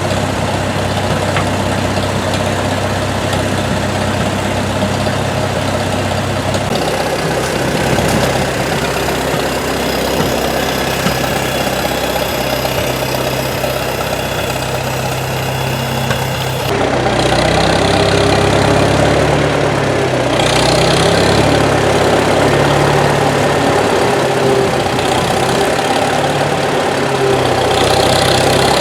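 Engine idling steadily, with its character changing abruptly about 7 and 17 seconds in.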